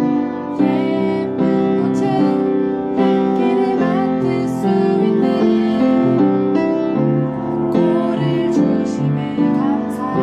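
Piano music: a piano playing a song with chords and melody notes changing every half second or so.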